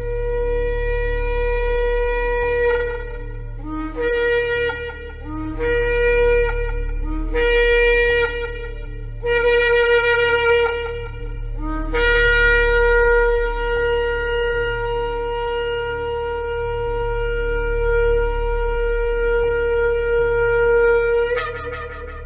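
Shofar (ram's horn) blown: a long blast, then four shorter blasts that each start on a lower note and step up, then a very long held blast of about nine seconds that leaps up in pitch at its end. A steady low hum sounds underneath.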